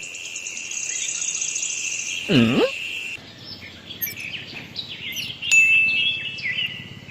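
Birds chirping and calling in many short high notes and trills, with one swooping glide about two and a half seconds in.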